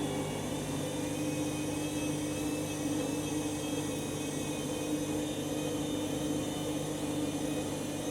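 Candy washing machine running steadily in its drain and spin stage, a constant motor hum and whine with several steady tones and no change in speed. The drum is full of excess suds from overdosed detergent, the condition that brings on a suds lock.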